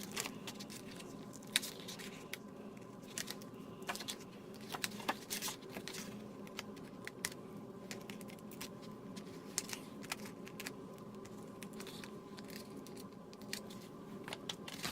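Faint, scattered light taps and rustles of paper and cardstock pieces being handled on a work surface, over a steady low hum.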